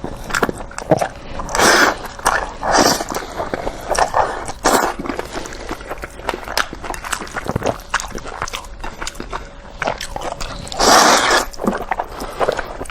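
Close-miked eating of Indomie instant noodles: wet chewing and mouth clicks at an irregular pace. Several longer, louder mouth sounds come through it, the biggest about eleven seconds in.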